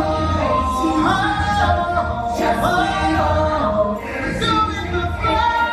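Music: singing voices holding long, gliding notes over the show's musical accompaniment, part of a stage-musical song number.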